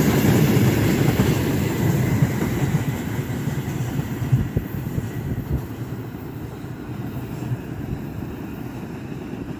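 Freight train of hopper wagons rolling past, a low rumble of wheels on rail with a few clacks and knocks. It fades steadily as the last wagon passes and the train draws away.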